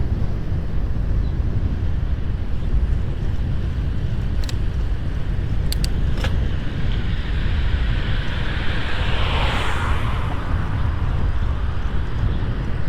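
Steady wind rumble on the microphone of a moving bicycle, with a vehicle passing about eight seconds in, its noise swelling and then fading away. A few sharp clicks midway.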